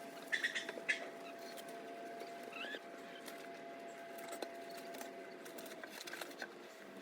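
Chickens giving a few short, high chirps, with one quick rising peep a few seconds in, among light scattered clicks and a steady faint hum.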